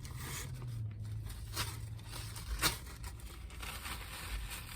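Chewing a crispy hand-breaded spicy chicken sandwich: crunching of the fried breading, with a few sharp crackles near the middle and a low hum over the first half.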